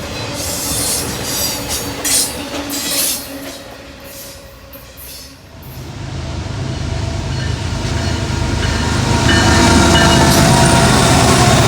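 Freight train cars rolling by with wheel clicks and squeals, dying away about four seconds in. Then a diesel locomotive's engine note grows steadily louder as it approaches.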